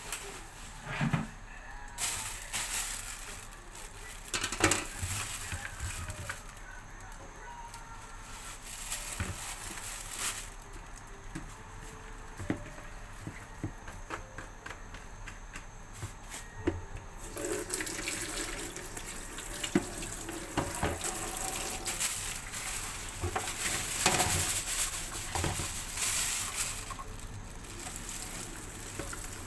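Running water, as from a kitchen tap into a sink, with scattered knocks and clinks. The water is loudest for a few seconds near the start and again through the last twelve seconds or so.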